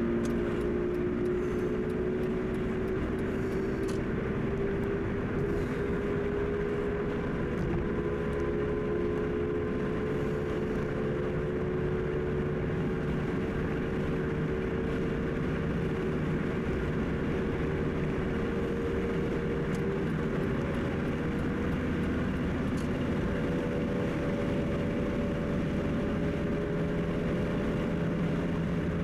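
Car driving at highway speed: steady engine and tyre-road noise, with the engine's tone rising slowly through the stretch.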